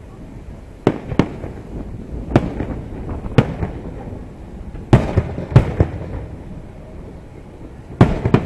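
Aerial firework shells bursting: about ten sharp bangs, several in quick pairs, each trailing off in a short rumble. The loudest are a cluster around five seconds in and a pair near the end.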